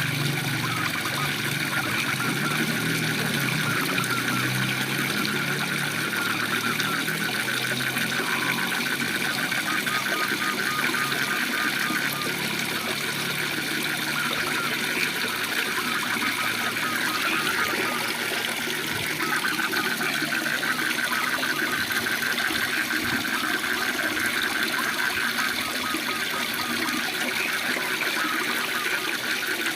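Waterfall rushing steadily, with a continuous fast-pulsing trill from frogs over it that thins out for a while midway and then comes back.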